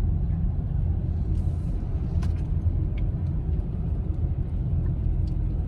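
Steady low rumble of a car driving, heard from inside the cabin, with a couple of faint clicks a few seconds in.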